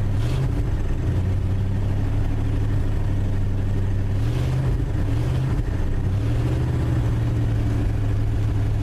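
1974 Ford F250's engine idling steadily just after a cold start, its speed lifting slightly a few times.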